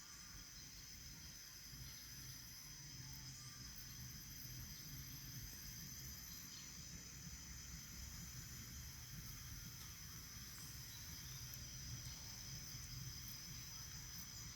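Faint forest ambience: insects chirring steadily in high, unbroken tones over a low rumble.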